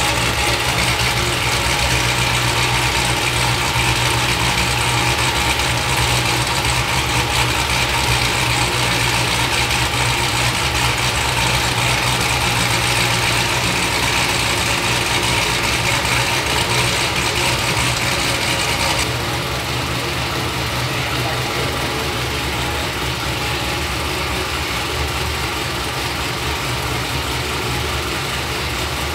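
Supercharged 416-cubic-inch LME iron-block V8 in a Cadillac CT5-V Blackwing, freshly built and idling steadily on its first run. A hiss over the engine sound stops about two-thirds of the way in.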